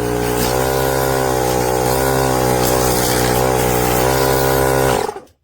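Small electric air compressor built into a VTOMAN X1 portable jump starter running steadily, then cutting off abruptly near the end as it reaches its preset 35 psi and shuts itself off.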